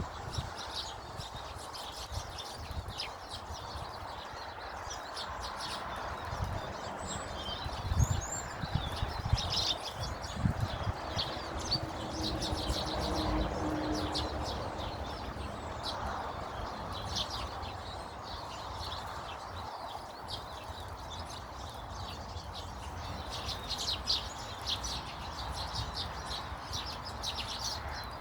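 Garden birds chirping: many short, high chirps and twitters all the way through, over a steady low background rumble.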